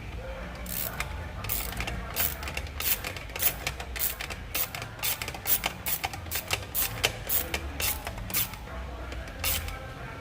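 Socket ratchet with an extension clicking in short uneven runs as a bolt is tightened, many sharp clicks that stop about a second before the end.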